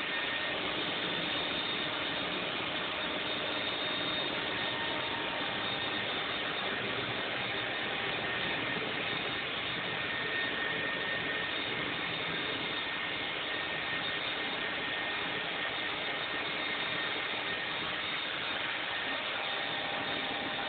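Grooming blow dryer running steadily, a constant even hiss.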